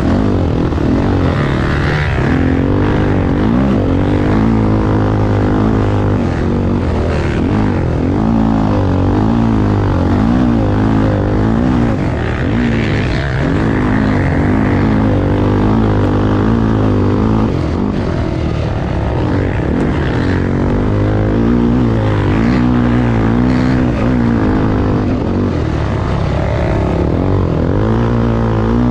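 Honda XR250 Tornado single-cylinder four-stroke motorcycle engine running hard and continuously, its pitch rising and falling repeatedly as the throttle is worked.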